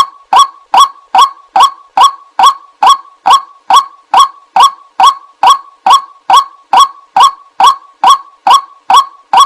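White-breasted waterhen call played as a bird lure: short, harsh notes repeated evenly at about two and a half a second.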